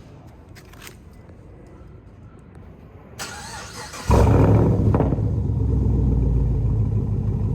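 2015 Chevrolet Camaro SS's 6.2-litre V8, straight-piped with no muffler or resonator, starting up. The starter cranks briefly about three seconds in, then the engine catches with a quick rise in revs and settles into a steady, loud idle.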